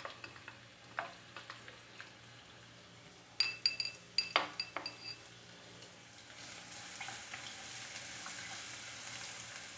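Minced garlic starting to fry in oil in a nonstick pan: a few clinks of utensils against the pan a few seconds in, then a faint sizzle that builds through the second half as the oil heats, with a spatula stirring. A low steady hum runs underneath.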